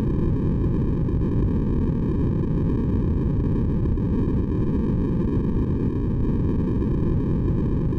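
Steady, deep-toned white noise from a sleep-aid track, unchanging throughout, with most of its weight in the low range.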